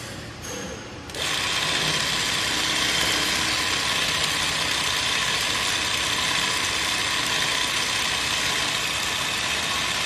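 ZY20U43 zigzag sewing machine starting about a second in and then running steadily at speed, stitching a decorative pattern.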